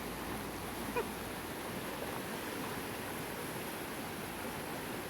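Creek running high with snowmelt: a steady rush of flowing water.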